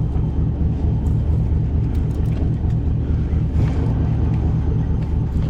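Fishing boat's engine idling: a steady, low pulsing rumble.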